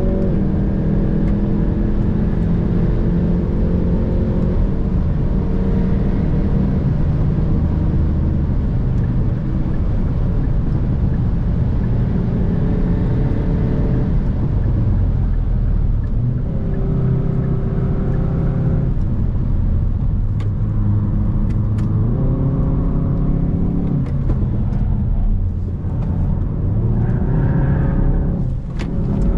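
Hyundai i30 N's turbocharged 2.0-litre four-cylinder engine driven hard under load. Its pitch climbs through the revs and drops back at each gear change or lift, over and over. In the second half a few sharp clicks cut through.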